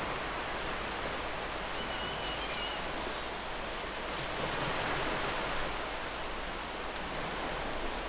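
Steady wash of sea surf, swelling slightly about halfway through, with a faint short high bird call about two seconds in.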